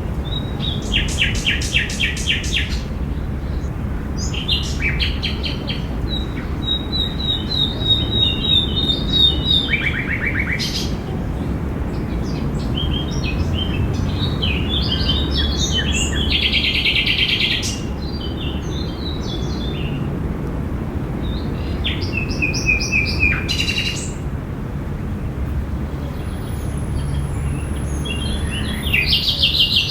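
Several songbirds chirping and singing in a park, with quick trills and runs of repeated high notes overlapping one another, over a steady low background rumble.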